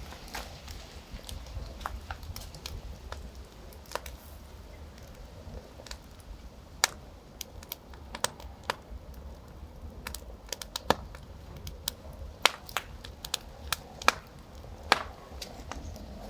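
Campfire burning, crackling with sharp, irregular pops of burning wood over a low steady rumble.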